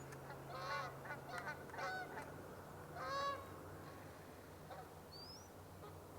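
Canada geese honking: two strong honks, the first under a second in and the second about three seconds in, with fainter calls between them. A thin rising whistle comes near the end.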